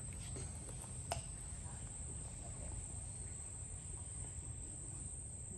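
Steady high-pitched insect chorus, with a low rumble underneath and a single click about a second in.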